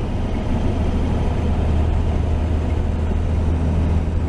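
1949 Chevrolet 3100 pickup's 235 inline-six with dual exhaust, running at a steady cruise with a low, even drone.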